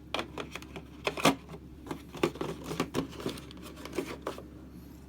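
Irregular clicks and rustles of board-game pieces and packaging being handled and taken out of the box, with the loudest click about a second in.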